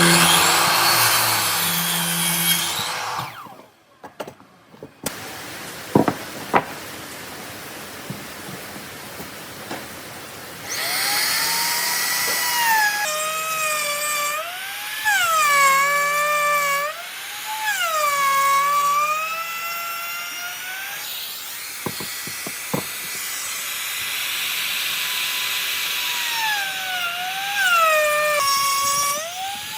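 Electric power tool working wood. A loud cutting noise for the first few seconds, then from about ten seconds in a motor whine whose pitch repeatedly sags and recovers as the tool is loaded and eased off.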